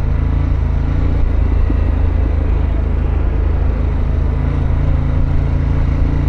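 Harley-Davidson Pan America's V-twin engine running at steady revs while riding, a loud, even low hum.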